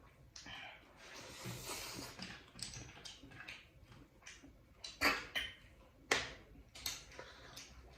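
A person eating, close to the microphone: irregular crunches and mouth clicks, with two louder crunches about five and six seconds in.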